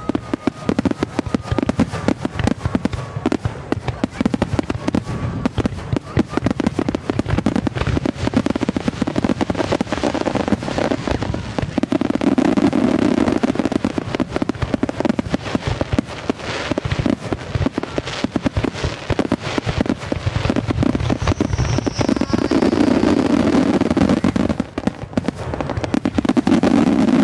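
Fireworks display in full barrage: aerial shells bursting one on top of another with dense bangs and crackling, a continuous rapid volley that swells to its heaviest about halfway through and again near the end.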